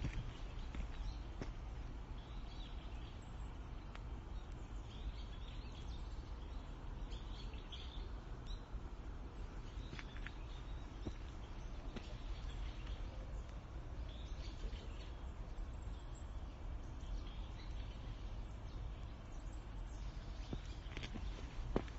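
Scattered faint bird chirps over a steady low background rumble, with a few light clicks.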